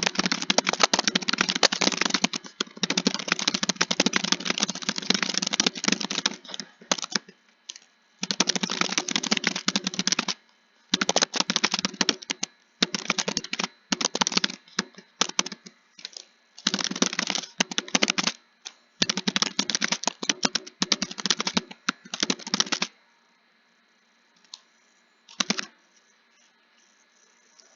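Computer keyboard typing in fast runs of keystrokes broken by short pauses. The typing stops about 23 seconds in, leaving a faint hum and a stray keystroke or two.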